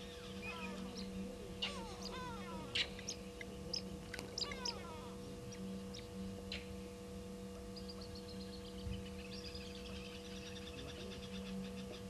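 Several birds calling in bushveld: sharp chirps and runs of short down-slurred whistles in the first half, then a fast, high trill later on, over a steady electrical hum.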